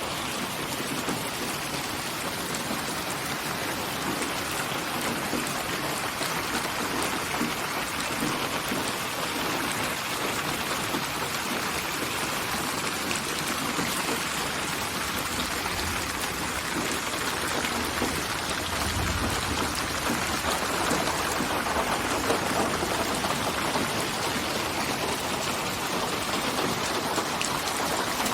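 Steady rain falling: an even hiss of many drops, with no music or tones.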